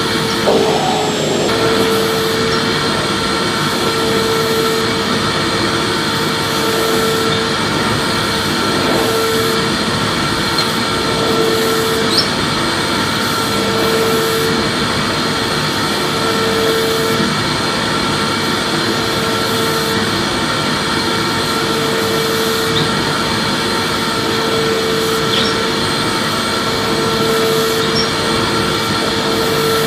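Vacuum cleaner running steadily, a loud even rushing of air with a humming tone that swells and drops out every second or two.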